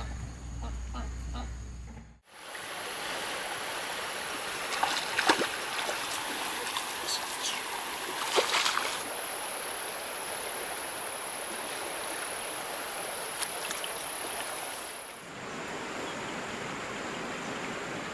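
River water rushing steadily, with a few splashes about five and eight seconds in and a thin, steady high tone over it.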